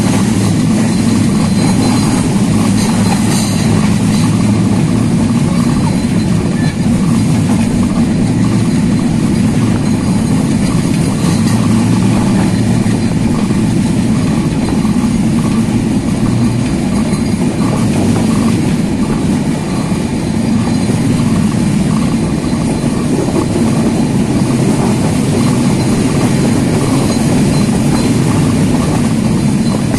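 A Bangladesh Railway train running at speed, heard from aboard: a steady, loud rumble of wheels on the rails.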